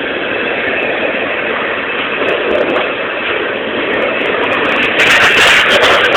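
A freight train's cars rolling past on the rails, a steady rumbling noise; about five seconds in it grows louder and harsher for a little over a second.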